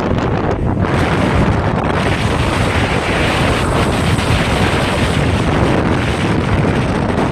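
Wind buffeting the microphone with a steady, loud rumbling rush, as from riding at speed.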